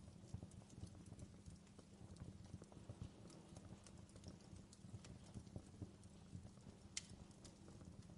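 Faint wood fire crackling in a fireplace: an irregular patter of small pops and soft knocks, with one sharper crackle about seven seconds in.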